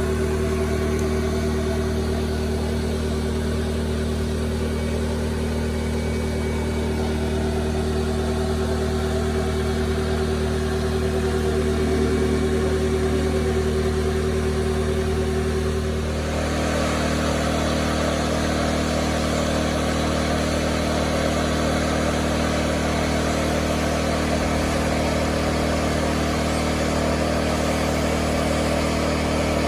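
A motor or small engine running steadily with a constant hum. About halfway through, its sound changes: one hum line drops out and a hissing rush comes up.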